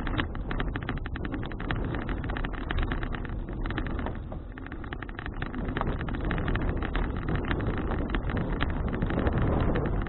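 Wind buffeting an action camera's microphone during a bicycle ride, mixed with tyre and road noise and a constant fine crackling. The noise eases slightly about halfway through.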